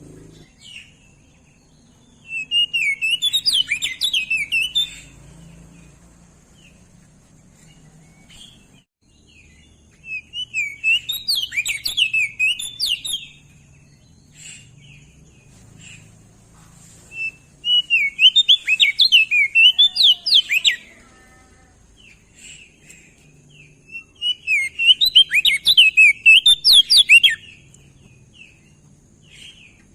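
Crested white-eye (opior jambul) singing in four bursts of rapid, warbling, up-and-down chirps, each lasting two to three seconds and coming about every seven seconds. Softer single chirps fall in the gaps.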